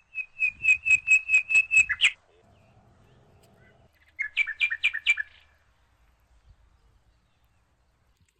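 A songbird singing: a quick run of about eight repeated clear whistled notes, then, after a pause of about two seconds, a shorter run of about five notes.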